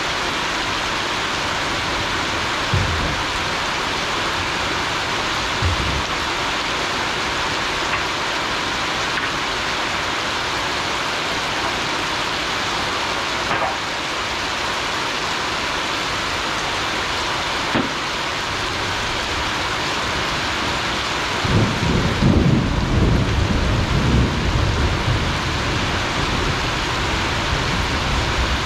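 Heavy rain falling steadily on grass and banana leaves, an even hiss. About three-quarters of the way through, a low rumbling swells up for a few seconds, and two brief low thumps come about three and six seconds in.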